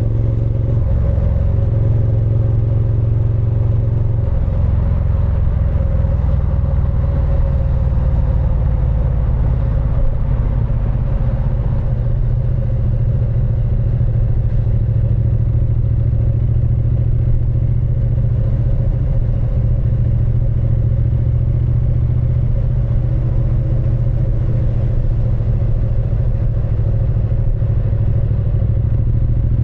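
Triumph Speed Twin 900's parallel-twin engine and exhaust running under way at a nearly constant speed, with a small change in engine note about a second in.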